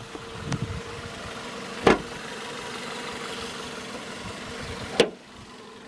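2011 Ford Focus four-cylinder engine idling steadily, with two sharp clunks about two and five seconds in as the hood is unlatched and raised.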